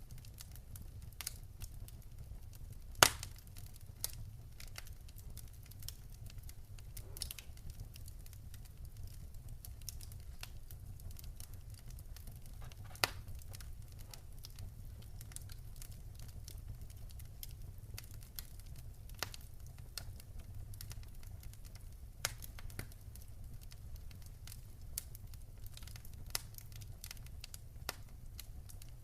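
Wood fire crackling, with irregular sharp pops, the loudest about three seconds in and another near the middle, over a steady low rumble.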